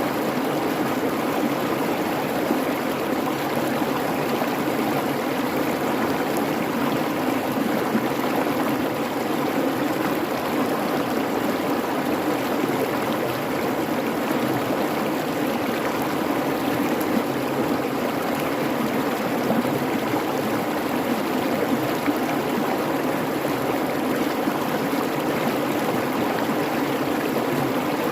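Creek babbling steadily, a constant even rush of running water.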